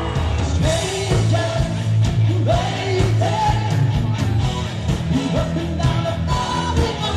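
Rock band playing with a lead singer: a sung melody over heavy bass and drums.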